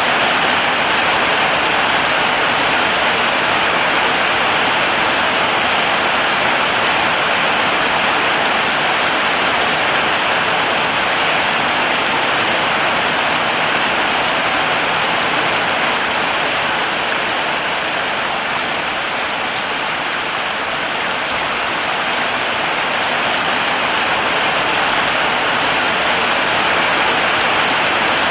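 Heavy rain falling steadily: a dense, even hiss of drops, easing off slightly for a few seconds past the middle.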